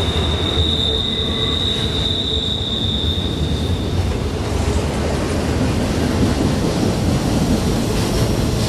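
CSX double-stack intermodal freight train rolling through a curve, its wheels squealing in one steady high tone that stops about four seconds in as the last cars pass, over a continuous rumble of wheels on rail.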